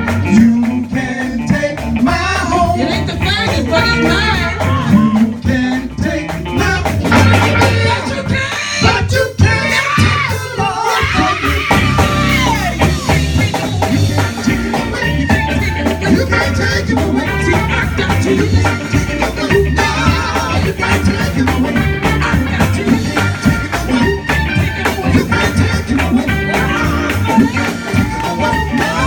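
A gospel band playing an upbeat song with voices singing over a steady beat.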